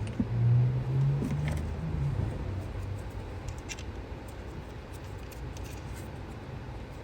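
Light clicks and handling noises of hands refitting hoses in a car's engine bay, with a low hum in the first two seconds.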